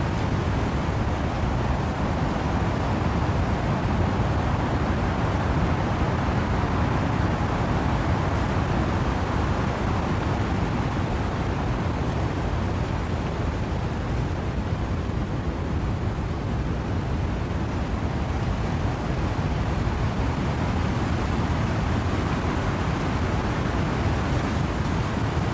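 Wind and rain through trees: a dense, steady rush, heaviest in the low end, easing slightly about halfway through.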